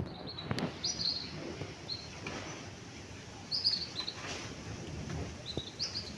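Birds chirping in short, high calls, several times, with a few faint knocks.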